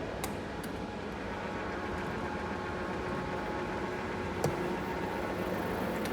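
Still FM-X 10 electric reach truck running: a steady hum with a faint whine, broken by a couple of short clicks, one just after the start and one about four and a half seconds in.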